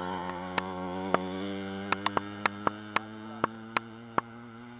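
Small dirt bike engine running at steady revs, its drone slowly fading as the bike moves away, with a string of sharp clicks over it.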